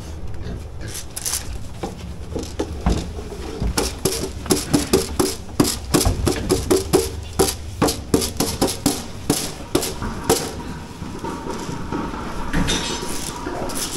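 A rapid series of sharp knocks and clanks, about three a second and loudest from about four to ten seconds in, some with a short ring.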